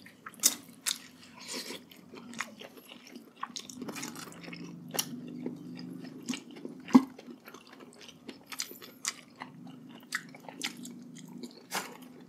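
Close-miked wet chewing and biting of braised pork hock, with many short mouth clicks and smacks. The loudest smack comes about seven seconds in.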